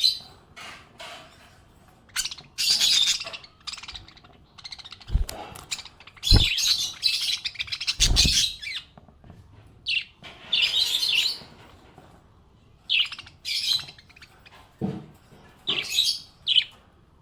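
Small pet parrots chirping and chattering in short bursts every second or two. A few low thumps come a little past the middle.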